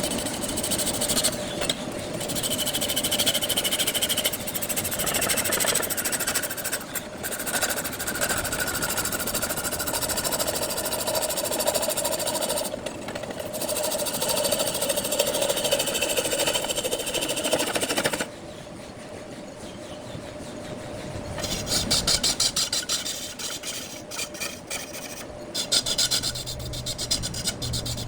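Wood lathe running, with a tool scraping against the spinning wood and a steady hum underneath. About two-thirds of the way through it drops quieter, then a fast run of rapid ticks comes in near the end.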